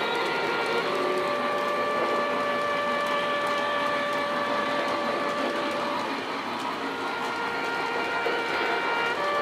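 Lionel O-gauge model train running on track: a steady electric-motor whir and wheel rumble, with a motor whine whose pitch shifts a few times as the speed changes.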